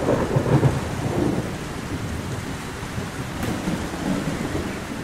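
Heavy rain with a low rumble of thunder, the rumble strongest in the first second or so, then easing into steady rain.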